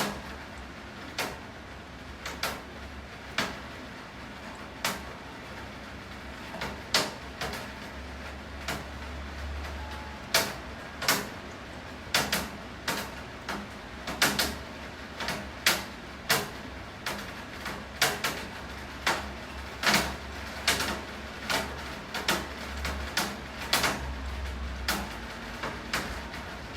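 Rainwater dripping onto a hard surface: irregular sharp knocks of falling drops, one or two a second, over a faint rain hiss. A low rumble underneath swells twice.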